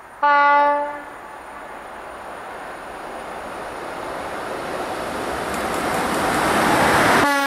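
Electric locomotive hauling a passenger train sounds its horn in one short blast just after the start. Its running noise then grows steadily louder as it approaches, and a second horn blast begins near the end.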